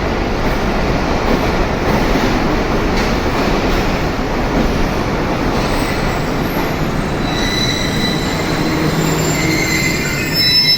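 A train running along the platform with a steady loud rumble. Thin high wheel squeals come in from about two-thirds of the way through.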